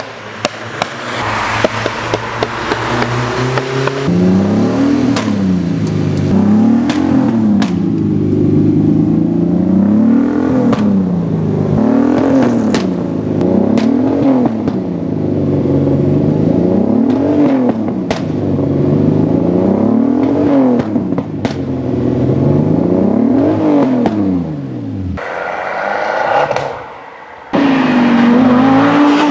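Race car engine revved again and again, its pitch rising and falling about every two seconds, with sharp exhaust pops and crackles between the revs. Other engines run briefly at the start and the end.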